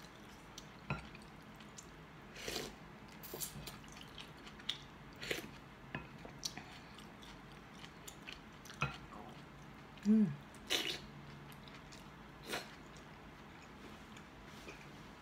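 A person eating chicken soup: soft chewing and mouth sounds with scattered small clicks and knocks, as a wooden spoon works in a glass bowl. A short low hum about ten seconds in is the loudest sound.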